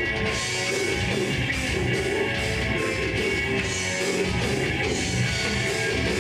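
Rock band playing live: distorted electric guitars over a drum kit, a steady, dense heavy rock sound.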